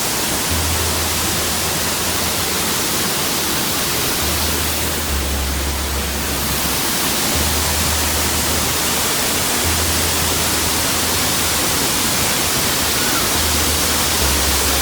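Waterfall: a steady, loud rush of falling water, with an on-and-off low rumble underneath.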